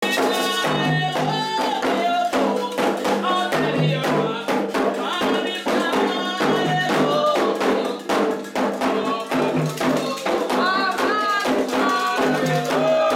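Candomblé atabaque drums beating a steady, dense rhythm under a sung chant for the orixá Xangô, with a voice leading the song.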